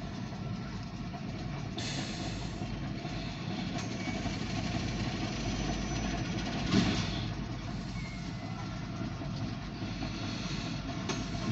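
Diesel switcher locomotive and loaded grain hopper cars rolling slowly past, a steady low rumble heard through a car's windshield, with a brief louder knock about two seconds in and another about seven seconds in.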